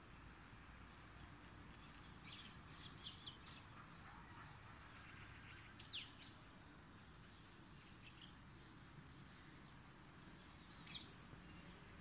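Songbirds chirping faintly: a quick run of short high notes a couple of seconds in, a downward-sliding call around the middle, and one louder chirp near the end, over a faint steady hiss.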